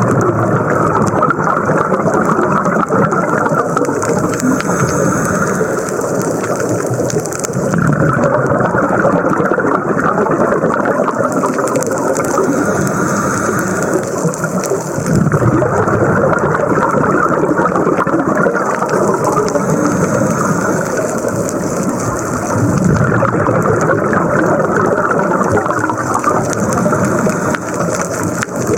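Scuba breathing heard underwater: the regulator's hiss and the rush of exhaled bubbles, swelling and fading in a slow cycle every few seconds.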